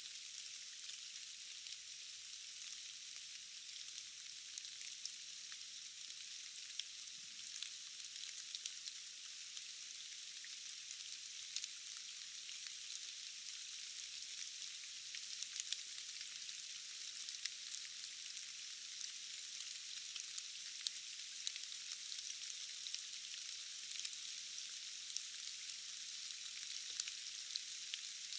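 Steady forest rain: an even, high hiss of falling drops with scattered sharper ticks of single drops, and almost nothing in the low range.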